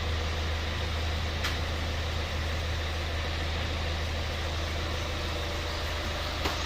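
Kia Carnival engine idling steadily during an oil flush, running on fresh oil to rinse out the inside of the engine. A short click about a second and a half in and another near the end.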